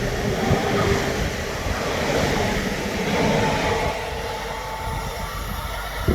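Electric train passing on the line: a loud, steady rushing rumble with a faint whine and low knocks, easing off about four seconds in.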